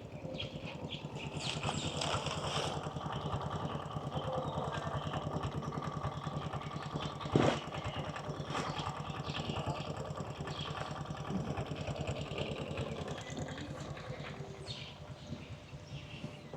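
A motor engine running steadily with a fast, even pulse, growing louder over the first couple of seconds and fading near the end. A single sharp click sounds about halfway through.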